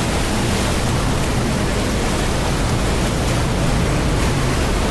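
Steady, loud rush of water from a canyon stream or waterfall, an even hiss without breaks.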